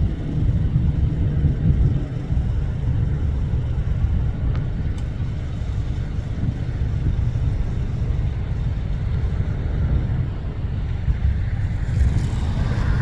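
Deep, steady rumble of an Airbus A380's four jet engines during its takeoff run, heard from a distance and mixed with gusty wind on the microphone. Near the end a higher hiss comes up over the rumble.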